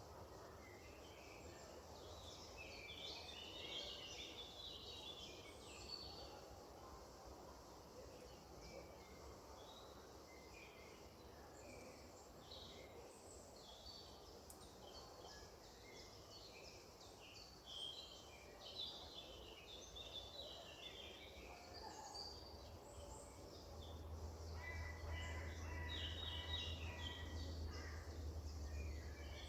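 Many small birds chirping and singing, with short, overlapping calls all through, over a faint, steady low rumble that grows stronger near the end.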